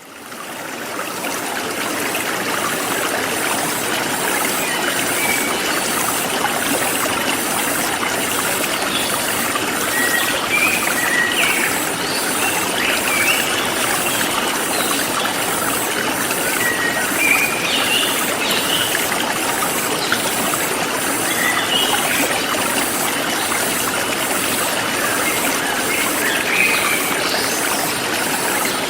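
Forest stream flowing and trickling, fading in over the first second. Over it runs an insect's high, evenly repeated chirp, about two pulses a second, with scattered short bird chirps.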